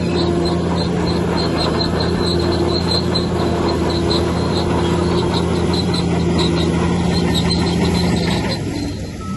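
Bulldozer's diesel engine running steadily under load, with its crawler tracks squealing in a rhythmic high pulse about three times a second. The engine sound drops off briefly near the end.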